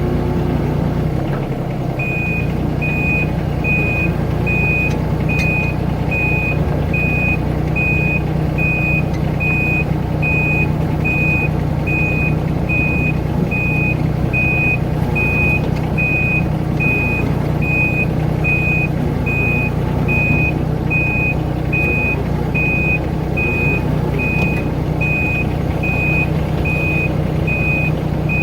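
Mini excavator's diesel engine running steadily, with a high-pitched travel alarm beeping a little more than once a second from about two seconds in, as the machine tracks.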